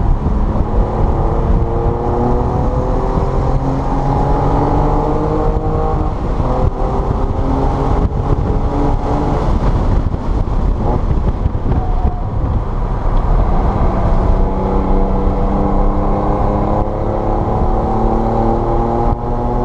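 Car engine under hard acceleration on a race track, its note climbing in pitch several times through the gears, over a constant rumble of road and wind noise.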